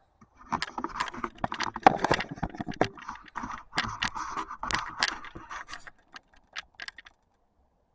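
Rustling and scraping with many sharp clicks, thinning to a few separate clicks before stopping about seven seconds in.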